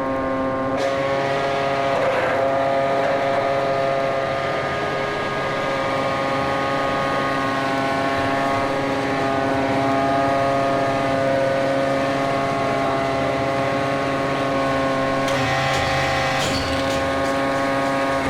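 An engine running steadily at one speed, a hum of many even tones holding one pitch, with a brief rise of hiss near the end.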